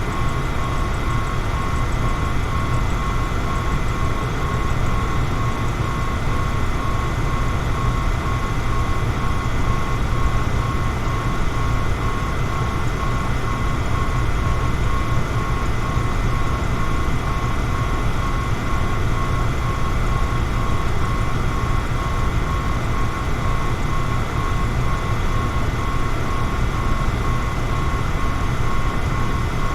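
Electric fan running steadily: an even rushing hum, heaviest in the low end, with a faint steady whine above it.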